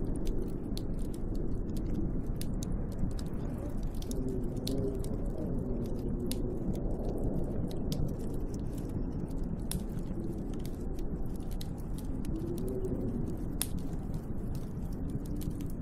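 Snowstorm wind blowing against a cabin, a steady rush with a low moaning howl that slowly rises and falls in pitch, over many scattered sharp ticks and crackles.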